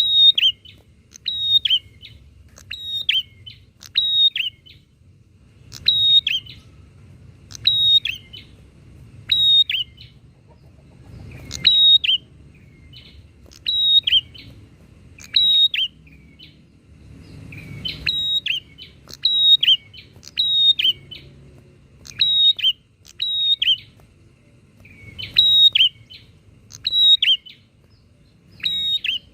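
Prinias (prenjak) calling back and forth: loud, sharp, high chirping calls, each dropping in pitch, repeated about once a second in runs with a few short pauses.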